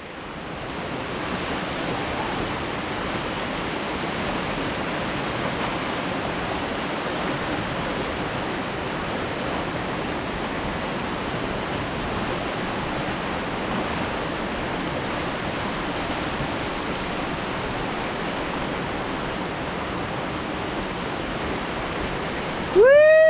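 Steady rush of whitewater from river rapids, an even roar of water that holds at one level throughout.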